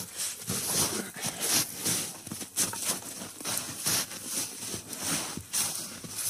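Wood fire crackling, with dense irregular snaps and pops over a steady hiss.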